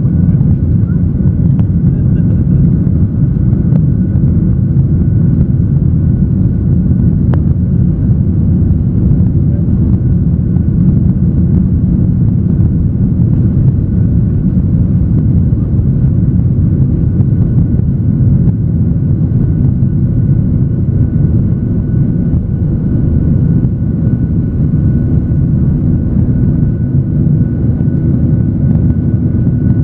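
Jet airliner's engines and airflow heard from inside the cabin during takeoff: a loud, steady low rumble with a faint steady whine above it.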